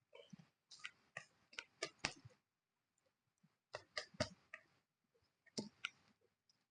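Food being chewed: short clusters of crunches and clicks, about five bunches separated by silent pauses.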